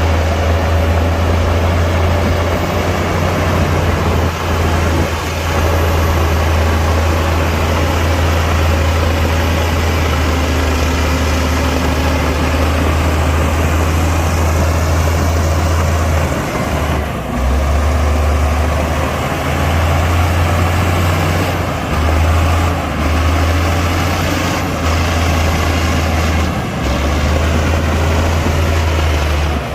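Heavy diesel engine of earthmoving machinery running with a deep, steady drone, which dips briefly several times in the second half.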